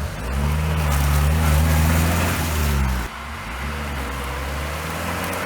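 Off-road vehicle's engine revving up and held high for a few seconds, then dropping off suddenly to a lower, steady running note about three seconds in.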